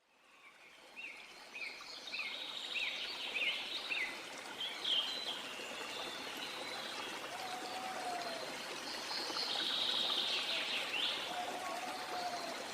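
Flowing stream with several wild birds singing over it. The sound fades in over the first couple of seconds; a quick run of repeated chirps follows, then higher trilling phrases and a lower whistled note that comes twice.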